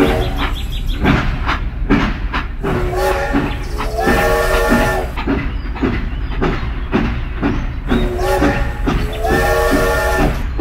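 Toy steam train running, with a steady chugging clatter of clicks and a multi-note train whistle that sounds twice, about three seconds in and again near the end.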